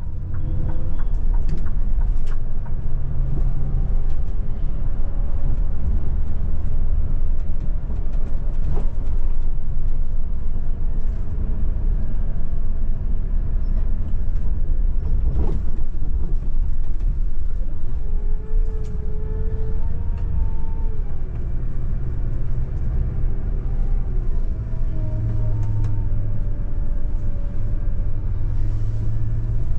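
Scania Metrolink multi-axle coach driving along a highway: steady low engine and road rumble, with a faint whine that rises and falls now and then.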